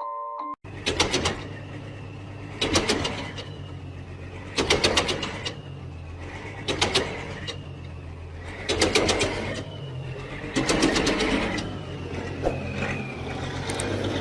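A machine or engine running with a steady low hum. A burst of clattering comes about every two seconds, each followed by a faint falling squeal.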